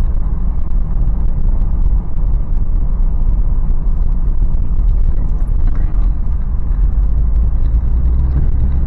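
Toyota 4Runner's 4.0-litre V6 and tyre noise heard from inside the cabin while driving: a steady low rumble.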